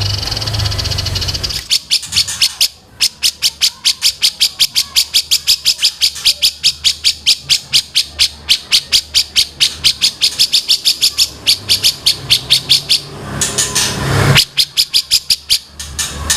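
A songbird calling in a long, fast, even run of sharp high chirps, about five a second, for around eleven seconds, then a shorter, looser run near the end.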